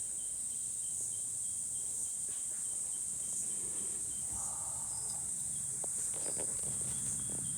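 Cicadas buzzing in a steady, high-pitched chorus, with a few faint clicks near the end.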